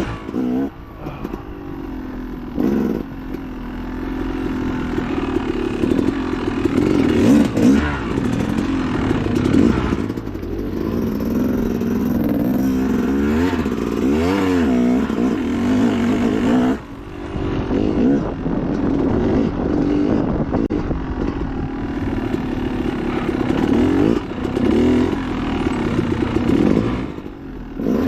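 Dirt bike engine revving up and down over and over under hard riding, with a brief drop about two-thirds of the way through, and clatter from the bike over rough ground.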